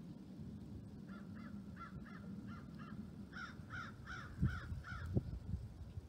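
A bird calls in two runs of short repeated calls, about three a second, the second run louder. Under it runs a low rumble, with two dull thumps near the end.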